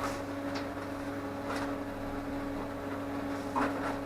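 Steady electrical machine hum with a few faint light taps, about half a second, a second and a half and three and a half seconds in.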